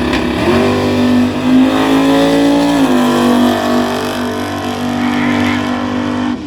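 Drag racing car accelerating hard down the strip, its engine pitch climbing and then dropping sharply at a gear change about three seconds in, then pulling steadily.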